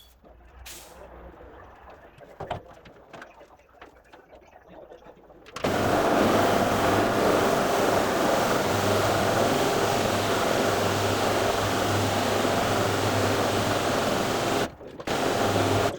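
A carpet-cleaning vacuum machine switches on about five and a half seconds in and runs steadily with a low hum, cutting out briefly near the end. Before it starts there are scattered light clicks and knocks.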